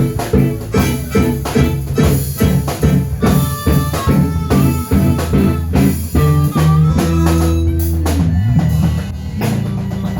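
Live blues band playing an instrumental passage: guitar over a steady, regular drum-kit beat.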